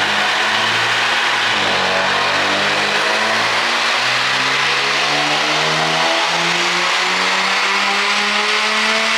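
Mercedes-Benz E450's turbocharged inline-six engine under full load on a chassis dyno, its note climbing steadily in pitch as the revs build through a pull.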